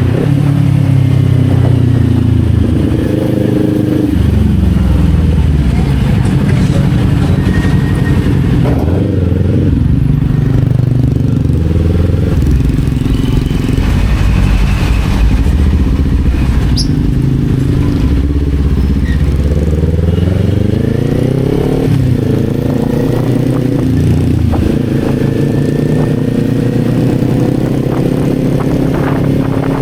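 Kawasaki Z400 parallel-twin engine heard on board while riding, revving up and down repeatedly: pitch climbs under acceleration and falls back as the rider shifts or eases off, with a long climb a little past halfway.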